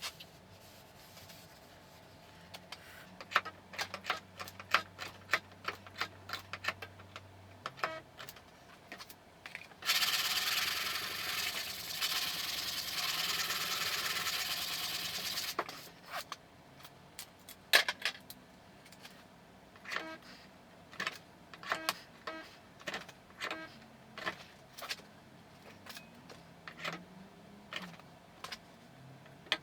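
Light, irregular taps on the steel bonnet panel of a VAZ-2110 during dent finishing, with a stretch of abrasive rubbing, like hand sanding, for about five seconds in the middle.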